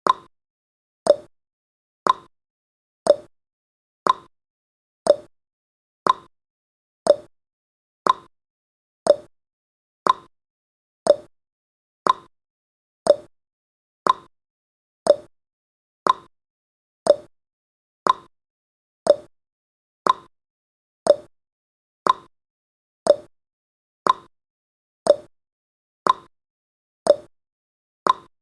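Clock-tick sound effect of a countdown timer, one sharp tick each second with silence between.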